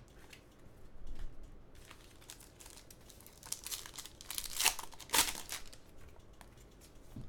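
Trading-card pack wrapper being torn open and crinkled, in several short rustles, the loudest about four to five and a half seconds in.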